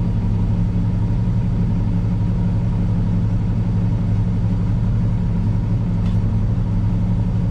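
Peterbilt semi truck's diesel engine idling steadily, heard from inside the cab.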